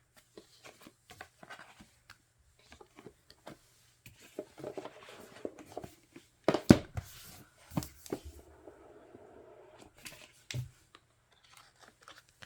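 Paper and plastic album packaging and photocards being handled: rustling and tearing with many light clicks and taps, and one sharper knock just past halfway.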